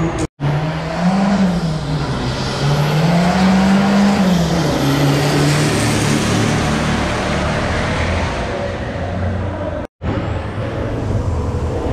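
Car engines running and revving, rising and falling in pitch under a steady hiss. The sound drops out briefly twice.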